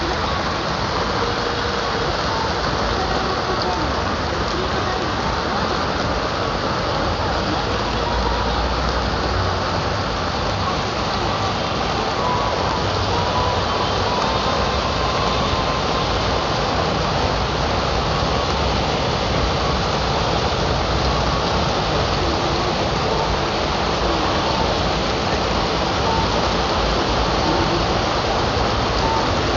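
Steady rain falling on a city street, an even, unbroken hiss.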